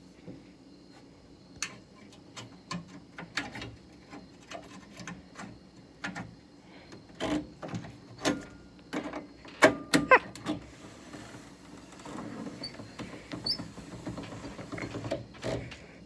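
Scattered clicks, taps and metallic clanks of hand work on the window mechanism inside a 1968 Saab 95 door, with two sharper clanks about ten seconds in.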